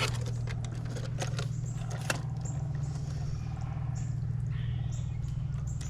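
Toy train set parts and packaging being handled: several sharp clicks in the first two seconds, then faint squeaks and rustles. A steady low hum runs underneath.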